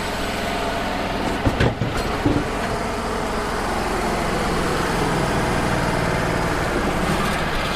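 Wood-Mizer LT35 hydraulic portable sawmill running steadily while taking a thin slice off a red oak log, with a few short knocks about a second and a half to two seconds in.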